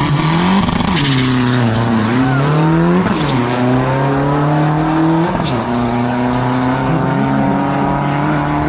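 Turbo-diesel drag truck engine at full throttle down the strip, the revs climbing and dropping sharply at each gear change: about a second, three seconds and five and a half seconds in.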